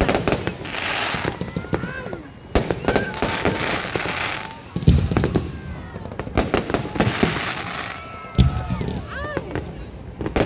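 Aerial fireworks bursting: four sharp bangs a few seconds apart, each followed by about a second of crackling, with crowd voices in between.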